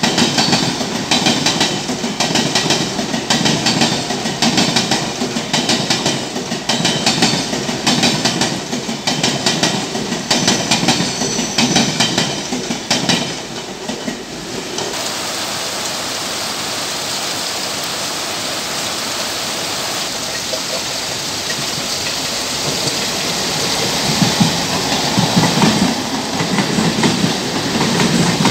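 Mumbai suburban electric local trains on the move. For about the first half, one passes with a fast, rhythmic clickety-clack of wheels over rail joints; once it has gone, an even hiss of heavy rain is left. Another train rumbles in during the last few seconds.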